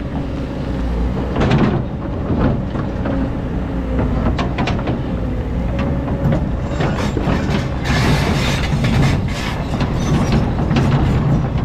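Hydraulic excavator digging sand: the diesel engine runs under load with a steady rumble, and the bucket and machine clank and clatter again and again, most busily a little past the middle.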